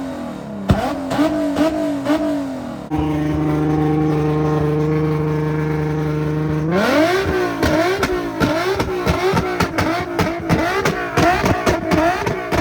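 Infiniti G37's 3.7-litre V6 being revved hard through its exhaust. Quick blips give way to revs held steady for about four seconds, then the engine sweeps up and is revved again and again, with a fast run of sharp pops and crackles from the exhaust, the sound of it spitting flames.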